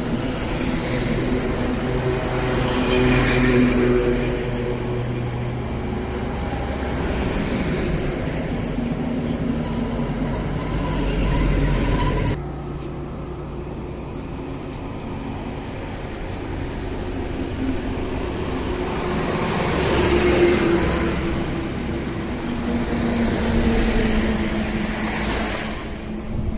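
Highway traffic: trucks and cars passing one after another, their engine and tyre noise swelling as each goes by and fading again. The sound changes abruptly about halfway through.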